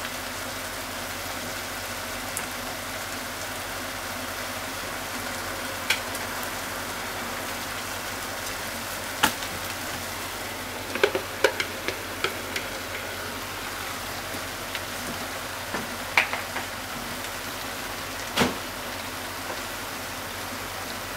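Chicken and chopped onion frying in a pot with a steady sizzle. Scattered sharp knocks and clicks sound over it, several in quick succession around the middle.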